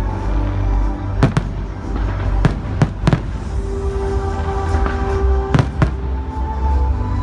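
Fireworks going off: about seven sharp bangs, several coming in quick pairs, over loud music with a steady low bass.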